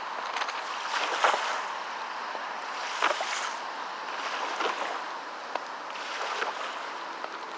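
Small lake waves washing and splashing against volcanic rock along the shore, a splash every second and a half or two over a steady wash of water.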